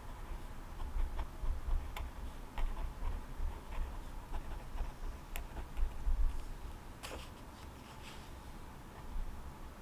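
Irregular light clicks and taps, with a faint low rumble underneath that fades out about two-thirds of the way through.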